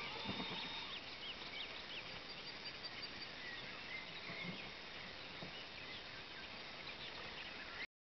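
Birds calling: many short, high chirps scattered throughout over a steady outdoor hiss, with a few faint low thuds.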